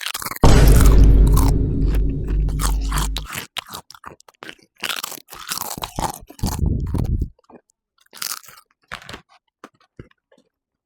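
Loud crunching and chewing of Cool Ranch Doritos tortilla chips. The loudest stretch, from about half a second in to about three seconds, has a deep boom under the crunches; after that come separate sharp crunches with another boom a little past six seconds, thinning out near the end.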